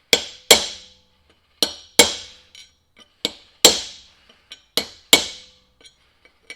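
Hammer blows on a steel chisel driving a bearing race down into a truck's front wheel hub. The strikes come in pairs, a lighter hit then a harder one, about every second and a half, and each rings sharply. The ringing means the race is not yet seated; it will sound solid once it bottoms out.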